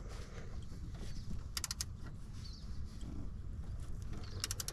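Stubby ratchet clicking as a starter mounting bolt is tightened: two quick runs of clicks, about a second and a half in and again near the end.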